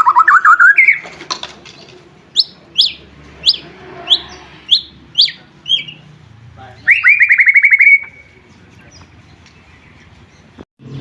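White-rumped shama (murai batu) singing: a fast rattling trill that ends just under a second in, then a run of about eight sharp, high, down-slurred notes, then another fast trill about seven seconds in.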